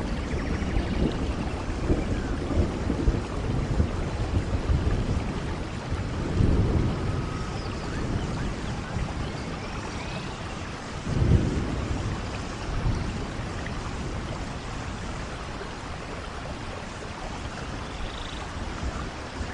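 Steady rain falling, with low rolls of thunder; the strongest rumbles come about six and eleven seconds in.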